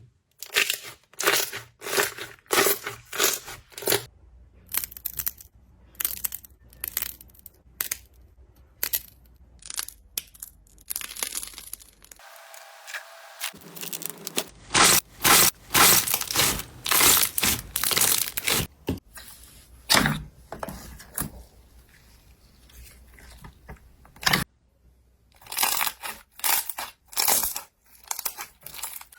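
Slime being handled close to the microphone: repeated crackling, tearing bursts in quick runs, with a short pause about halfway through.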